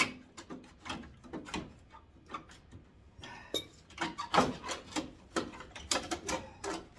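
Irregular clicks, knocks and scrapes of a screwdriver working at the plastic headlight trim of a 1991 Ford Ranger, the trim's clips holding it on.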